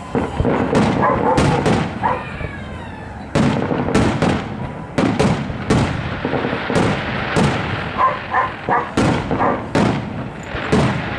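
Aerial firework shells bursting: an irregular run of sharp bangs, a little under two a second, over a continuous rumble and crackle of the display.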